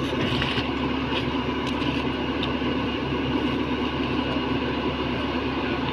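Diesel engine of heavy construction machinery running steadily, with a few faint clicks.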